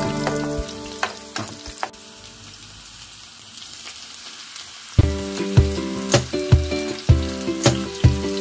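Diced onions sizzling as they fry in oil in a pan, with a few clicks in the first couple of seconds. About five seconds in, background music with a steady beat comes in over the sizzling and is the loudest sound from then on.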